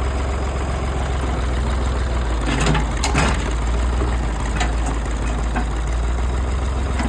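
Mid-1960s farm tractor's engine running with a steady low drone, with a few sharp knocks around the middle.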